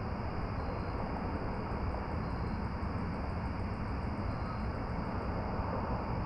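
Steady, unchanging rushing noise with a low rumble underneath, like wind or a constant engine drone; no distinct events.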